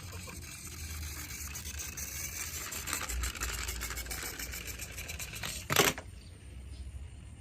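Toy trucks clattering: a dense run of rapid plastic rattling and clicking for about five seconds, then one sharp knock about six seconds in.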